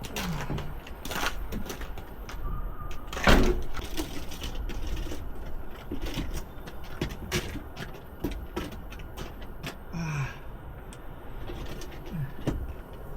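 Wind buffeting the microphone, with scattered clicks and knocks and one louder thump about three seconds in.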